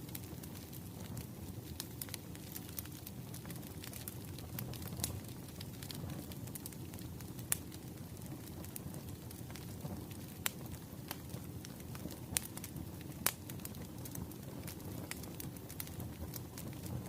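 Wood fire crackling, with a steady low rumble and frequent small pops and snaps, a few of them sharper and louder.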